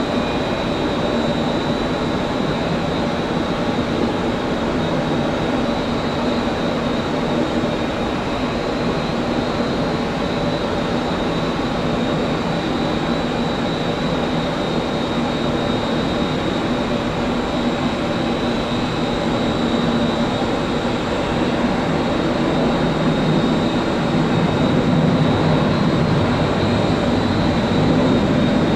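Jet airliner engines running: a steady roar with a high whine held throughout, growing a little louder near the end.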